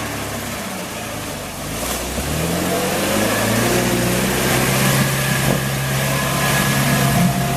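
Off-road 4x4's engine running, revving up about two seconds in and then holding at higher revs as the vehicle drives on.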